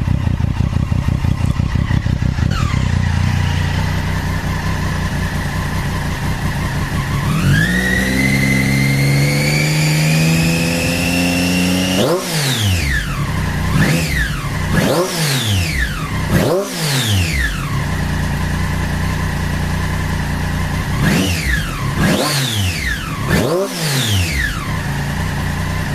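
Triumph Daytona 675R's three-cylinder engine running. It holds steady at first, then climbs slowly in pitch for several seconds, then drops back. After that come quick throttle blips, each rising sharply and falling back to idle: a burst of three or four, then a pause, then two or three more.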